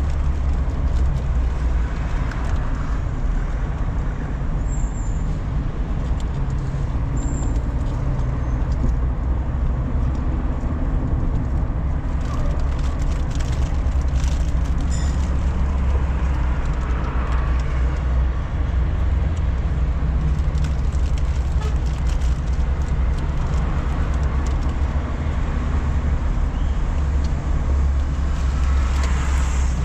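A car driving at a steady pace, heard from inside the cabin: a steady low engine hum and road rumble with tyre noise.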